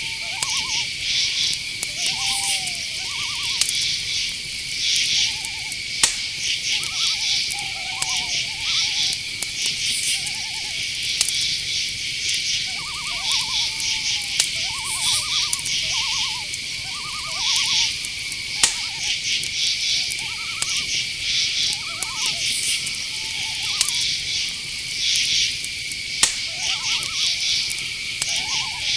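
Night-time chorus of crickets and other insects: a steady high trill with rapid pulsing chirps over it. Many short pulsed calls sound lower down, and a few sharp clicks come through, about six seconds in, near the middle and again near the end.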